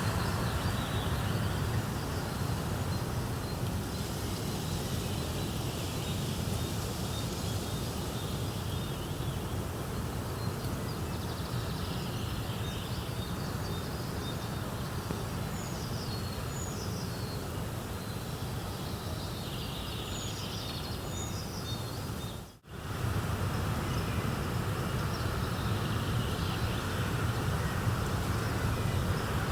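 Nature ambience: a steady low rumbling noise with scattered short, high bird chirps over it. The sound briefly drops out about three-quarters of the way through, then resumes.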